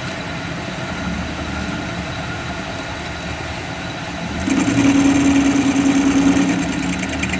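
A machine motor runs steadily. About four and a half seconds in it gets louder, with a strong low hum and a high, thin ringing above it.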